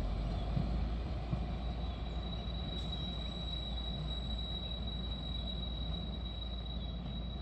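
Low, steady rumble of a narrow-gauge train running, with faint irregular knocks. A thin, steady high tone joins about three seconds in.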